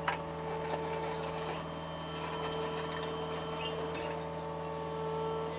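John Deere 75 excavator's diesel engine running steadily at high throttle, with a sharp click right at the start and a few faint high squeaks around the middle.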